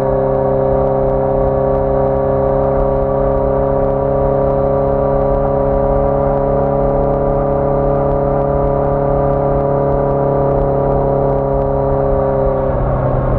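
1981 Yamaha XJ650 Maxim's air-cooled inline-four engine running at a steady speed on the road, with a brief change in pitch near the end.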